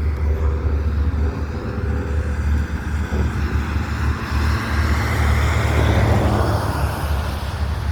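CSX freight train passing: a loud, steady deep rumble, with a rushing noise of wheels on rail that swells about five seconds in.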